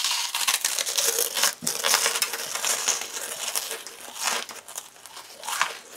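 Brittle, airy honeycomb toffee being bitten and chewed close to the microphone: a dense run of crackly crunches, loudest at first and thinning out toward the end.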